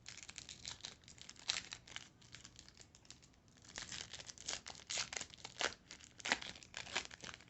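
Foil wrapper of a baseball trading-card pack being torn open and crinkled, in irregular crackling bursts that grow busier and louder in the second half.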